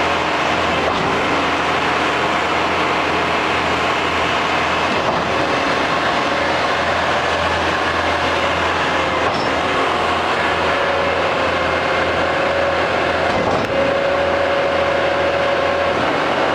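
A 21-metre truck-mounted concrete pump running, giving a steady, loud mechanical noise with a low hum; a faint held tone joins in during the second half.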